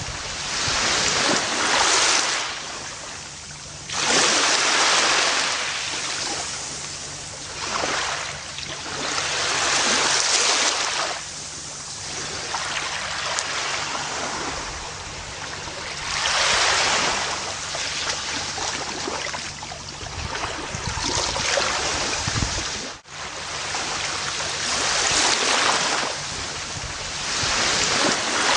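Gentle ocean waves breaking and washing up a beach, the surf swelling and fading every few seconds. A brief sudden dip in the sound comes about two-thirds of the way through.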